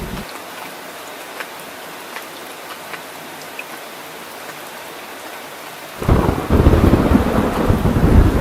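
Steady rain falling, with scattered drop ticks. About six seconds in, a loud rumble of thunder starts abruptly and keeps rolling.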